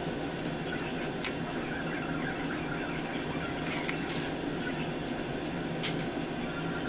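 A steady mechanical hum with a few short, sharp clicks.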